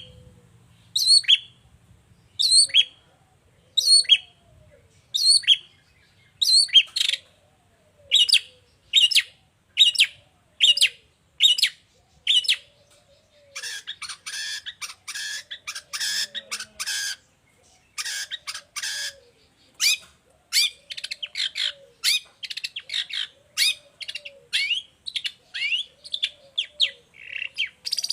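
Long-tailed shrike (pentet) singing: sharp, repeated calls about once a second, giving way about halfway through to faster, denser rattling phrases.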